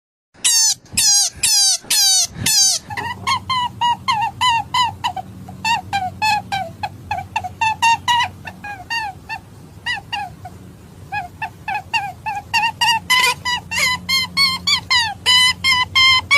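Rabbit calls: five loud, falling squeals, then a fast run of short high chirps at about three or four a second, over a low steady hum.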